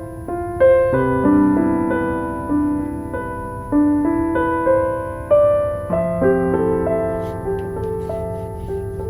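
Soft, slow piano music, with notes and chords struck one after another and each dying away. Faint crackles sound late on.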